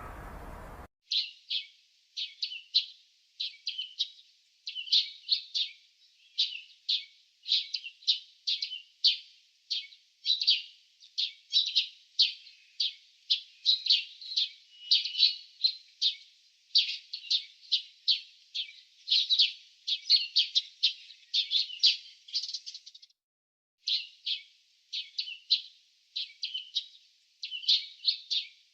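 Small birds chirping rapidly: clusters of high, sharp chirps several times a second. They begin about a second in and break off briefly near the end.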